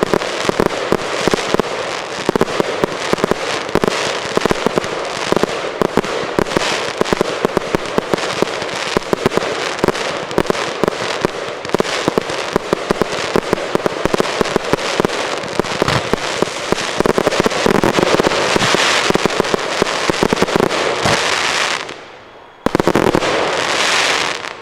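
Fireworks show in a dense, continuous barrage of aerial shell bursts and crackle, many sharp reports a second. The barrage drops off briefly about 22 seconds in, comes back loud for a last couple of seconds, then cuts off near the end.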